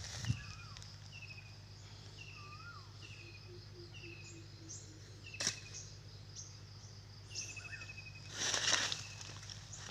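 Birds calling outdoors: one bird repeats a short falling chirp about every 0.7 s, with other scattered bird notes over a steady low hum. There is a sharp click about halfway and a brief loud rush of noise near the end.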